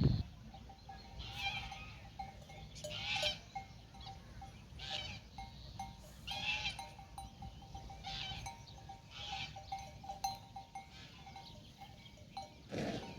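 Livestock bells clanking irregularly, a struck bell tone repeating every second or two over a low background hum.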